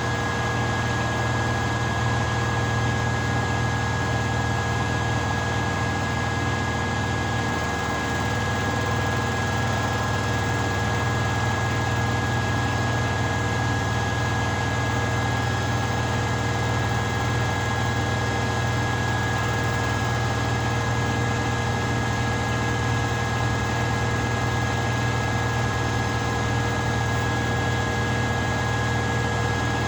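Washing machine running with a steady low motor hum and a thin, constant high whine over a wash of mechanical noise, unchanging throughout.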